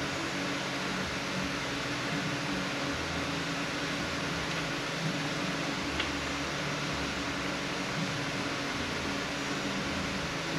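Steady mechanical hum with hiss, like a running fan, with one faint click about six seconds in.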